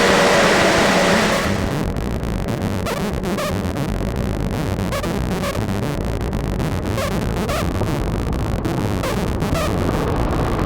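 Noisy ambient techno from Make Noise semi-modular synthesizers: a loud wash of noise with a few held tones is filtered down about a second and a half in, leaving a dense low rumbling noise bed with faint rhythmic ticks above it.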